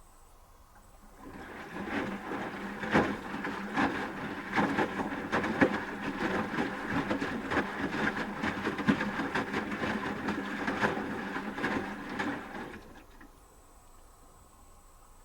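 Asko Quattro W6098X washing machine in its wash phase: the drum starts turning about a second in and tumbles the laundry for around eleven seconds with many small knocks, then stops for a pause.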